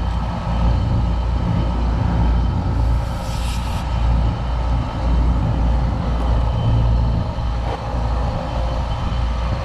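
Small packaged R22 air-conditioning unit running, its compressor and condenser fan giving a steady low rumble and hum. A brief hiss lasts just under a second, about three seconds in.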